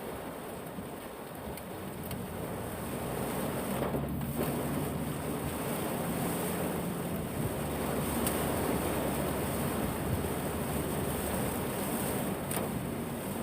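Heavy typhoon rain and wind, a steady rushing noise that grows louder about three seconds in, with a low steady hum underneath.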